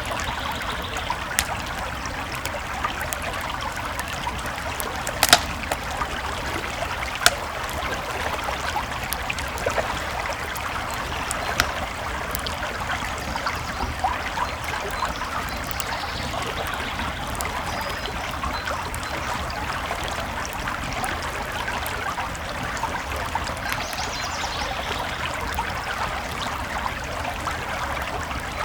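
Campfire crackling, with scattered sharp pops, the loudest about five and seven seconds in, over the steady flow of a creek.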